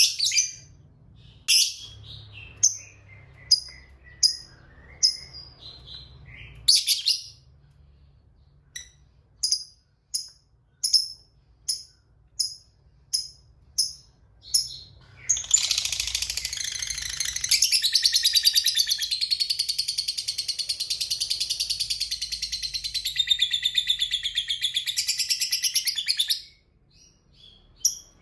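Lovebird calling: a run of sharp, high single chirps about one to two a second, then, about halfway through, a long unbroken rapid chattering trill of some ten seconds, the 'ngekek panjang' (long chatter) that keepers prize in lovebirds.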